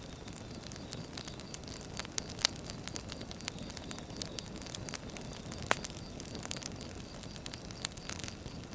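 Burning firewood crackling, with irregular sharp pops and snaps over a steady low hiss of the fire; a few louder pops stand out, near the middle and about three quarters in.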